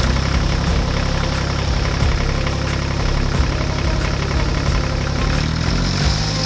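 An engine running steadily with a low hum and faint regular knocks. Its pitch rises a little near the end.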